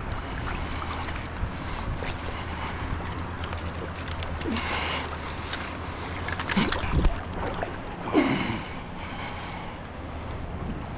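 Fast-rising river water running and gurgling after a dam release, with wind buffeting the microphone. There are a couple of brief louder sounds a little past the middle.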